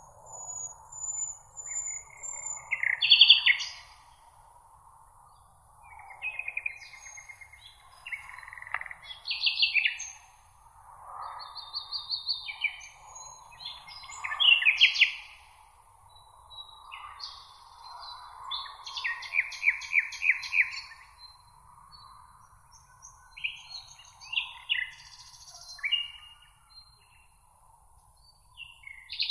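Several songbirds singing and calling over each other: a run of varied chirps, trills and quick repeated notes, with brief pauses between phrases. A steady high hiss lies beneath.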